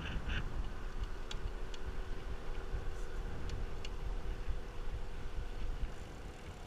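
Steady low rumble of wind and road noise while riding a bike, with a faint steady hum and a few light ticks.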